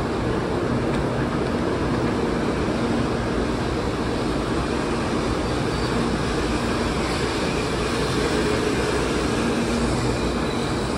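Taiwan High Speed Rail 700T train rolling past along the platform as it pulls into the station: a steady rumble and hiss of the passing cars, with a faint low hum that comes and goes.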